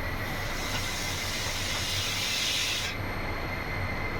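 Air conditioner running: a steady rushing hiss of air over a low hum, with a faint high whine.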